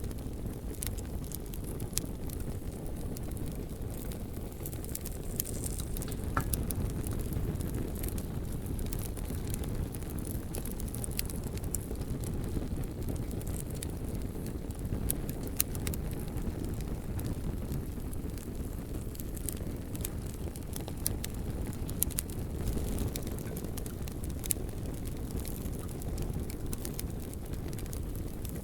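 Bonfire burning with a steady low rumble of flame, broken by scattered sharp crackles and pops from the burning logs.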